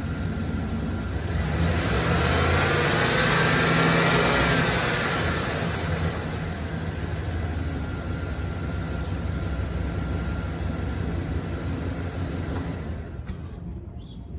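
2015 Chevrolet Express 2500 van engine idling, revved once starting about two seconds in, the pitch rising and then falling back to a steady idle.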